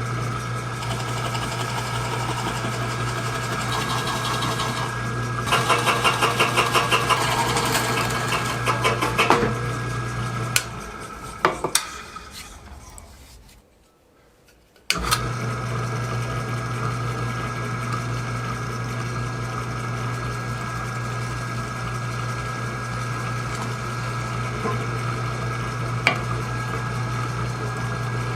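Electric drill press motor running with a steady hum while a bit cuts through the insert plate, chattering rhythmically for a few seconds. About halfway through the motor is switched off and spins down to a stop, then is switched back on and runs steadily again.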